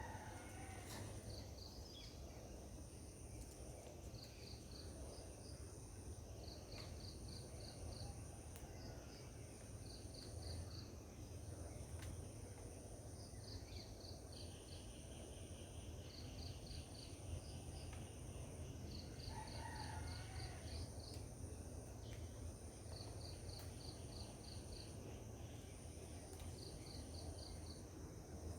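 Faint insects chirping: a steady high buzz with short runs of rapid pulses repeating every second or two, over a low rumble.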